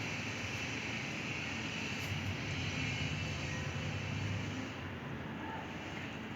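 Steady low rumble with a hiss, like distant engine noise, easing a little about two-thirds of the way through.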